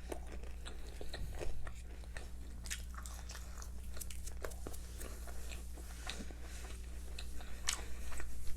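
Close-up chewing and biting of fried fast food: irregular soft crunches and wet mouth clicks, over a steady low hum.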